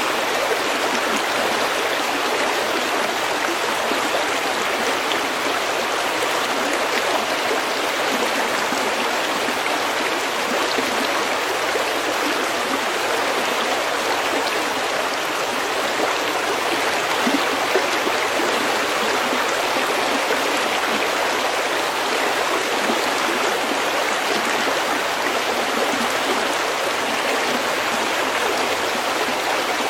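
Stream water flowing and gurgling over pebbles, a steady even rush.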